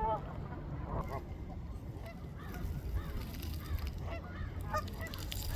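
A large flock of ducks calling, many short overlapping calls throughout, over a steady low rumble.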